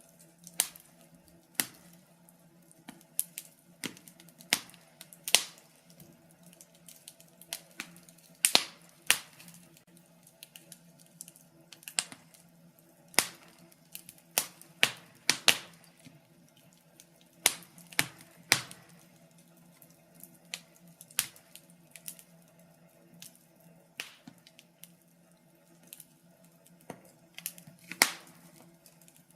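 Wood burning in a fireplace, crackling with irregular sharp pops and snaps, one to three a second, over a faint steady hum.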